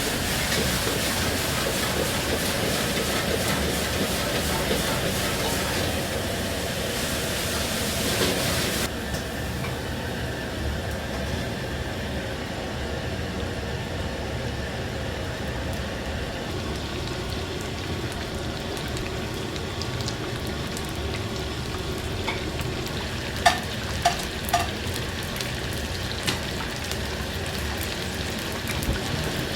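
Batter-coated pork for tangsuyuk deep-frying in oil: a steady sizzle, brighter for the first few seconds and a little duller after. Three sharp clicks come near the end.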